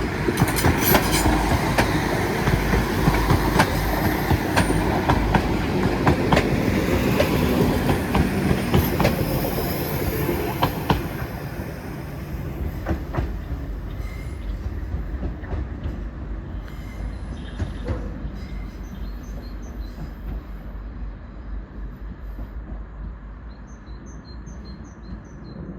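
Two coupled Class 197 diesel multiple units passing through the station, with wheels clicking over rail joints and a high wheel squeal. The sound is loudest for the first dozen seconds and then fades steadily as the train moves away.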